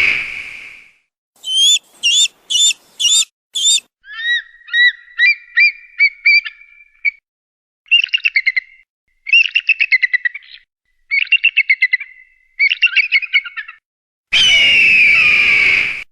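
Bird-of-prey calls: the fading end of a long scream, then several short, high, piping notes and runs of quick chattering trills. Near the end comes a loud, long, descending scream.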